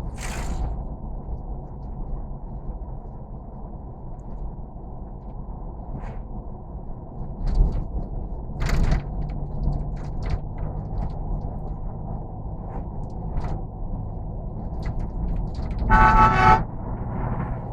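Vehicle running with a steady low rumble, and a short car horn blast near the end.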